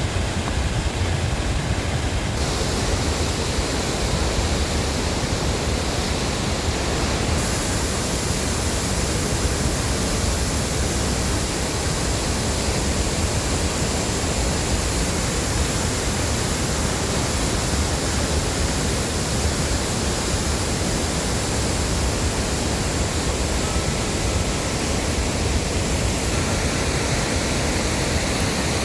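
Steady, loud rush of a large river waterfall, Tännforsen, pouring without a break.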